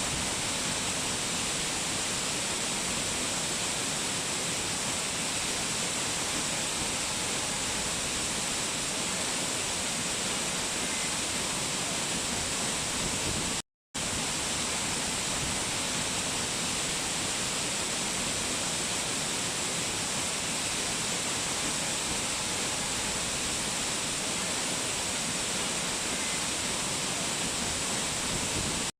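Waterfall rushing as a steady, even hiss, strongest in the upper range, with one brief cut to silence about fourteen seconds in.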